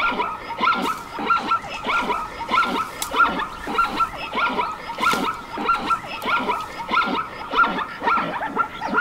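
Zebra calling: a long series of barking yelps, about three every two seconds.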